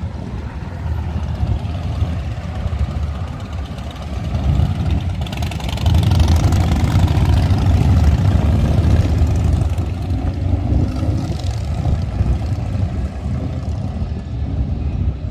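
Motorcycle engines rumbling in street traffic, swelling louder for a few seconds midway as bikes pass close by.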